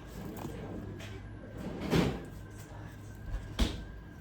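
A door being handled: a dull thud about two seconds in, then a sharp knock near the end.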